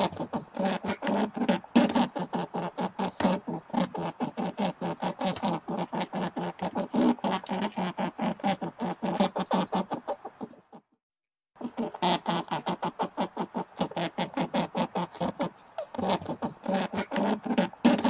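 Domestic rabbits chewing close to the microphone: rapid crunching, about six bites a second, broken by a brief total silence about eleven seconds in.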